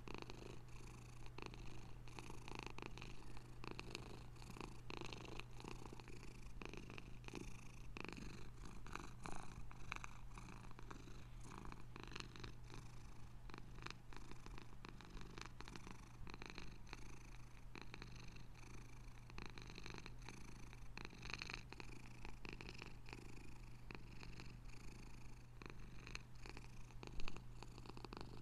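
Domestic cat purring steadily, close up, with a single brief knock near the end.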